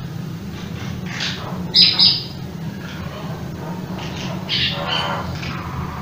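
Bird calls: a few short chirps and squawks, the loudest about two seconds in and another cluster near the end, over a steady low hum.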